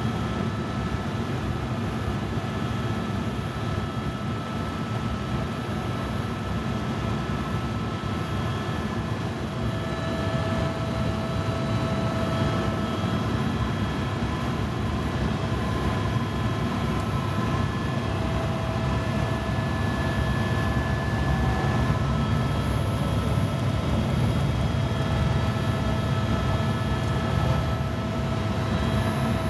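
Tour helicopter in flight, heard from inside the cabin: a steady, dense rotor and engine rumble with several steady whining tones above it.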